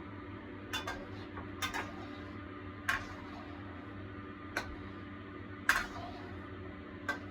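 A metal spatula tapping and scraping against a wok while the thickening sauce is stirred. The taps come as sharp, uneven clicks about once a second over a steady low hum.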